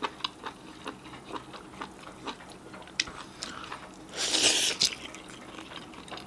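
Close-miked wet chewing and small mouth clicks from someone eating sauced baby octopus, with a louder hissing sound lasting under a second about four seconds in.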